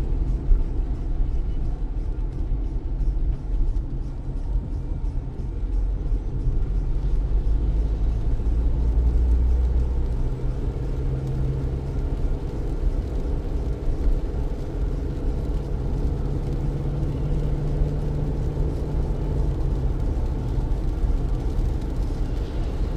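A car driving on wet city streets, heard as a steady low rumble of engine and tyre noise. A low drone swells about halfway through and fades near the end.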